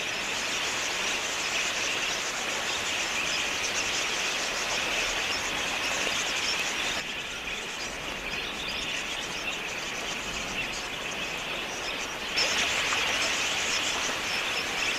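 A large flock of budgerigars chattering: a dense, continuous high twittering of many small chirps. It drops back for a few seconds about halfway through and comes back louder near the end.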